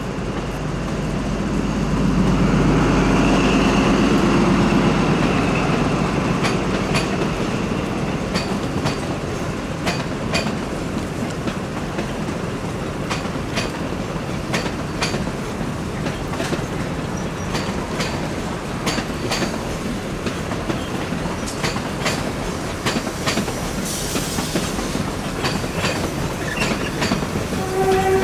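Train running along the line, its wheels clicking over rail joints in an even rhythm. The low rumble swells louder a couple of seconds in, then settles.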